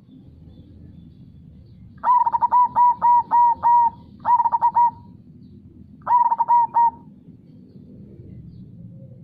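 Zebra dove (perkutut) cooing in three phrases: a run of about six quick notes, then two shorter bursts of about three notes each. Underneath is a steady low rush of flowing river water.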